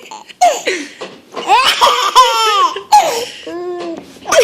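A baby laughing: several bursts of high-pitched giggles with short gaps between them.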